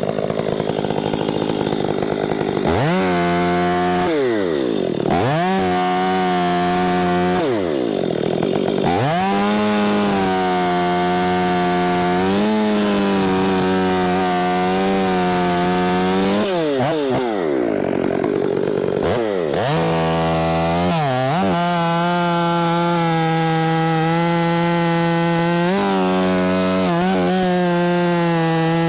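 Milwaukee battery-powered top-handle chainsaw cutting through a large trunk section. Its whine drops in pitch each time the chain loads up in the wood and climbs again when it frees, several times over.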